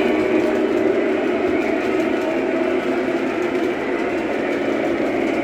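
Train running, a steady, even noise with no sharp knocks or horn.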